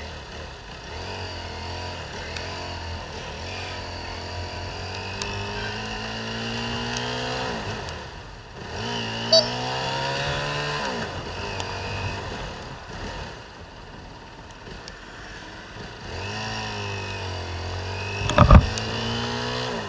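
Honda CBR250R single-cylinder motorcycle engine, heard from the rider's helmet, accelerating through the gears several times, its pitch climbing and then dropping at each shift, over steady road noise. A short loud burst comes near the end.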